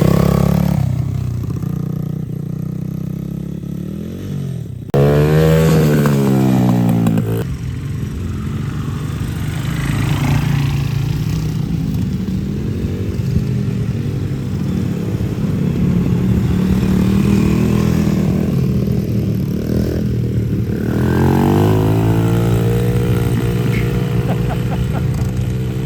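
Small dirt bike engine running and revving. Its pitch climbs as it speeds up about five seconds in and again around twenty-one seconds, then settles into a steadier run.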